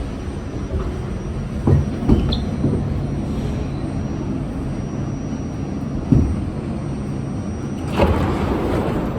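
R68 subway car running along the track with a steady rumble, broken by a few short clunks and a rush of hissing noise about eight seconds in.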